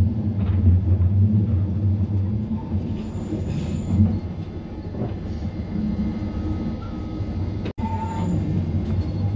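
On-board sound of a metre-gauge electric train on the Centovalli railway running along the line: a steady low rumble of wheels on track, with faint thin wheel squeals now and then. The sound cuts out for an instant near the end.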